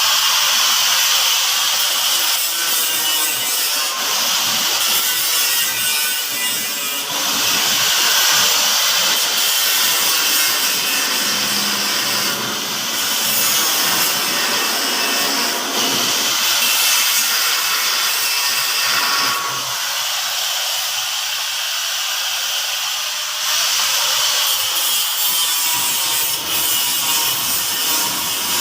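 Angle grinder working stainless steel: a loud, steady, high-pitched rasp that breaks off and resumes briefly several times as the tool is lifted and set back on the metal.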